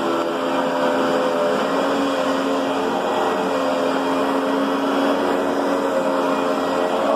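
Riccar Brilliance upright vacuum cleaner running steadily: a motor hum with a few steady tones over the rush of air.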